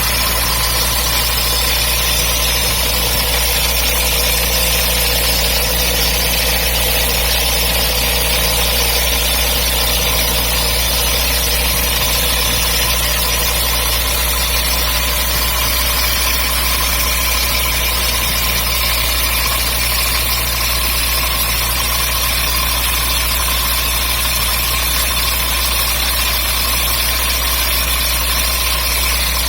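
MGB's four-cylinder B-series engine idling steadily, making a strange noise that the owner cannot place.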